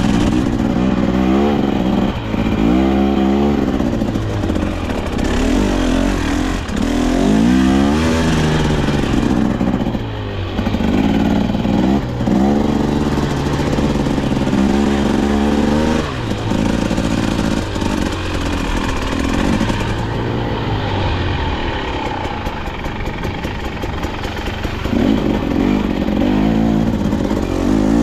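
KTM 250XC-W two-stroke dirt bike engine under riding load, its pitch rising and falling again and again as the throttle is worked, settling to a lower, steadier pitch for a few seconds about two-thirds of the way through before revving up again near the end.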